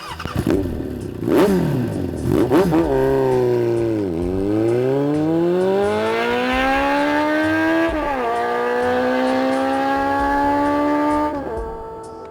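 Motorcycle engine blipped a few times, then pulling away with a rising engine note. It changes gear about eight seconds in, revs up again, and the throttle closes near the end.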